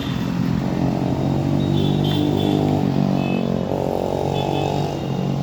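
Motorcycle engine running steadily, with a slight change in its note partway through.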